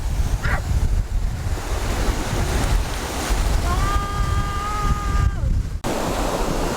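Ocean surf washing in, with wind buffeting the microphone. About four seconds in comes one long high call, held steady and then falling off at its end.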